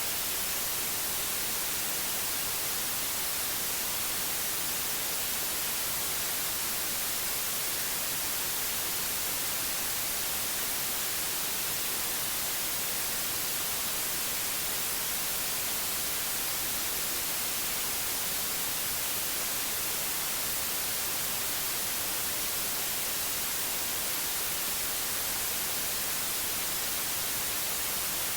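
Steady white noise: an even, unchanging hiss, brightest in the high end, with no breaks or events.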